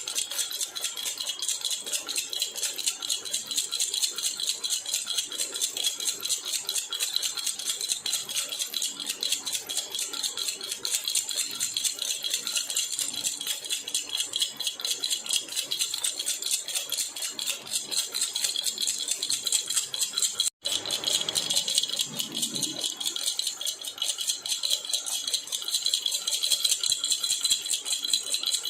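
Jhunjhuna baby rattle shaken continuously, a dense, rapid, high jingling rattle at a steady level. It cuts out for a moment about two-thirds of the way through and then carries on.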